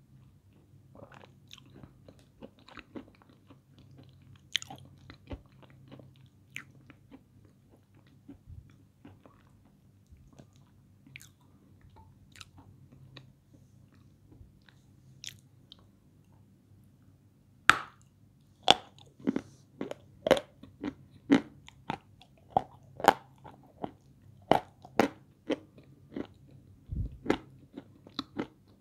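Dry chunks of peschanka edible clay crunching as a person bites and chews them close to the microphone. The crunches are faint and scattered at first, then turn loud and regular, about two a second, from about two-thirds of the way through.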